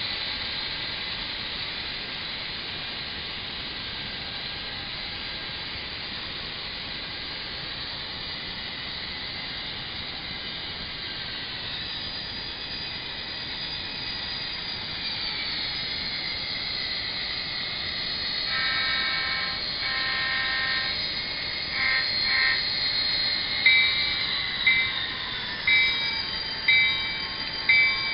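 Factory sound decoder of an Athearn SD40R model diesel locomotive playing through its small speaker: a steady diesel engine sound whose pitch shifts in the middle. About two-thirds in come a few horn blasts, and near the end a bell rings about once a second.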